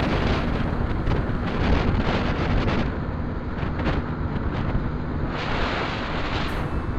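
Wind buffeting the microphone of a riding motorcycle, with the bike's engine humming steadily underneath. Music comes in near the end.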